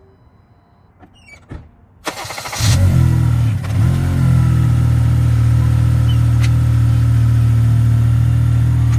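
2010 Honda Accord engine cranked by its newly replaced starter about two seconds in, catching within about half a second, flaring up briefly and then settling into a steady idle. A few light clicks come just before the cranking.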